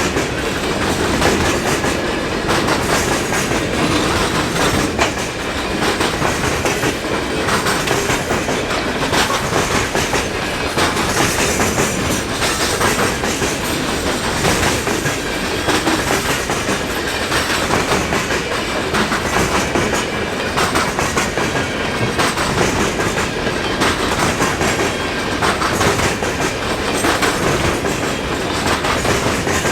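Freight cars of a mixed freight train rolling past close by: a steady rumble of steel wheels on rail with frequent sharp clicks over the joints. The wheels are crunching over ice-glazed railheads.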